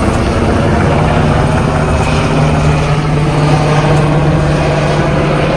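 An engine running at a steady speed, a constant low hum with no change in pitch or loudness.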